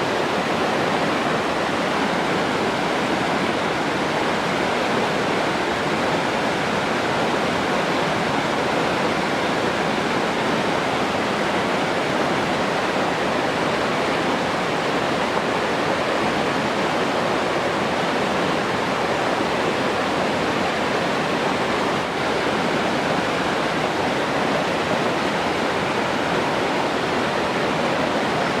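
Rushing water, a steady, unbroken wash like a waterfall or fast stream.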